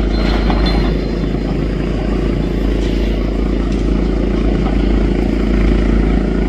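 Demolition excavator's diesel engine running steadily, with a few faint knocks.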